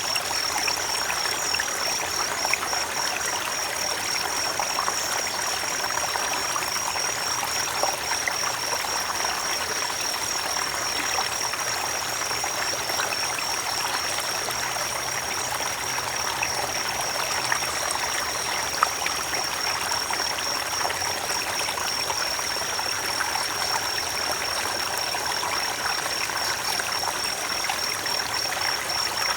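Creek water flowing in a steady rush, with a steady, high-pitched pulsing trill above it.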